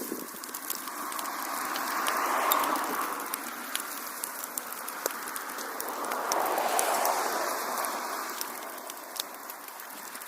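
Wood fire crackling in a fireplace, with frequent sharp pops and snaps over a rushing hiss that swells and fades twice, peaking about two and a half seconds in and again near seven seconds.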